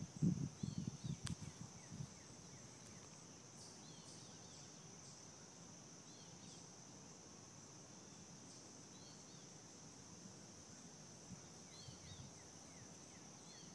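Faint, steady high-pitched insect trill, typical of crickets, with short bird chirps every few seconds. A low rustle is heard in the first two seconds.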